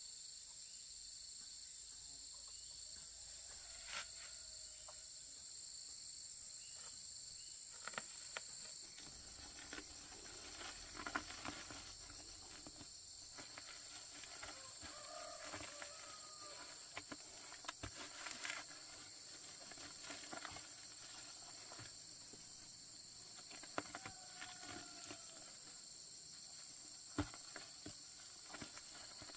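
Steady high-pitched insect chorus, with occasional light knocks and clicks.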